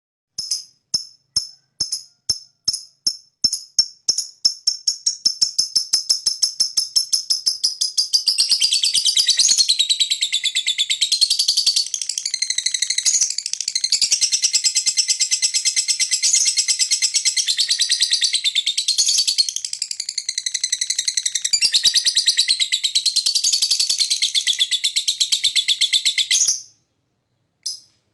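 Lovebird's long 'ngekek' chatter, the call used as bait to stir other lovebirds into calling. Separate sharp high chirps speed up over the first few seconds and run together into a continuous rapid chatter. The chatter cuts off suddenly about 26 seconds in, followed by one short chirp.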